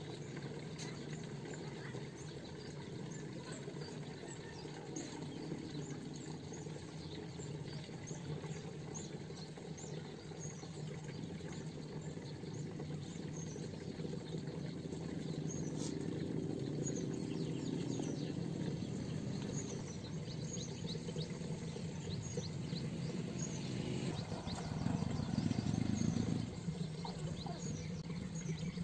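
Small birds chirping in short repeated calls over a steady low background rumble, which swells louder for about two seconds near the end.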